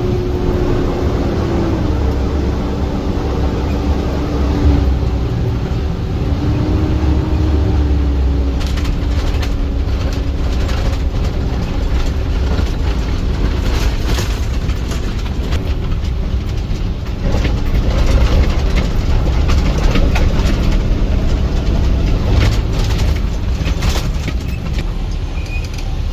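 Side-loader garbage truck driving, heard from the cab: steady engine and road rumble with a whine that steps down in pitch about two seconds in, and clattering rattles and knocks through much of the second half.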